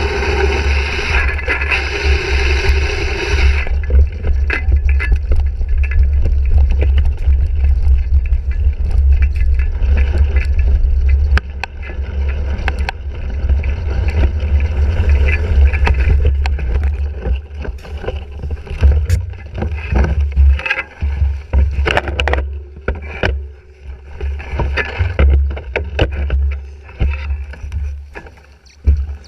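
Wind buffeting and rumble on a handlebar-mounted action camera while racing a cyclocross bike, a 2017 Fuji Jari 1.5, with rattles, knocks and tyre scrape from riding over rough course ground. A louder rushing hiss covers the first few seconds, and the rumble turns choppier in the second half.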